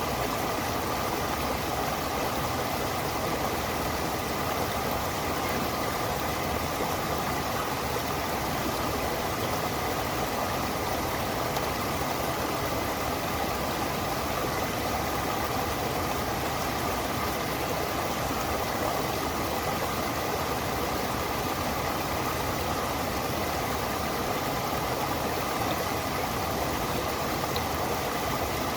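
Steady rush of flowing stream water, an even, unchanging noise with a faint steady high tone running underneath.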